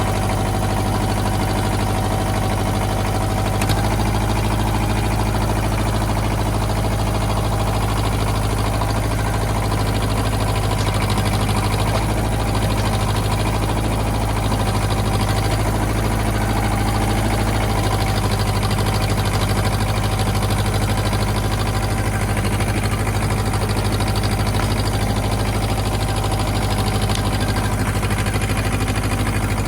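Ford 1700 compact tractor's three-cylinder diesel engine running steadily, with a steady whine above the engine note, as it backs up to drag a log chained to its loader bucket. The pull is failing for lack of traction on the frozen ground, the tyre sinking in.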